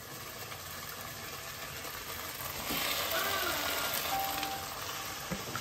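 Frying sizzle in a hot pan of onions and fenugreek leaves. It grows louder and brighter about two and a half seconds in, as strained boiled chicken pieces are tipped in from a strainer ladle.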